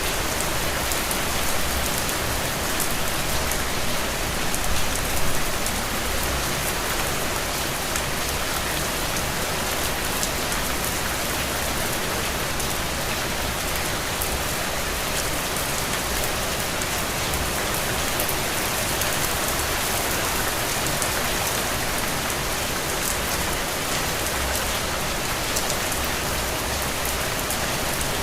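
Steady rain falling, an even dense hiss with fine drop ticks through it, briefly louder about five seconds in.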